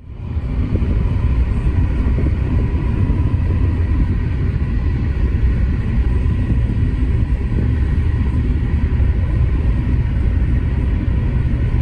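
Boeing 737-700 jet noise: a loud, steady low rumble with a faint steady high whine over it, fading in at the very start.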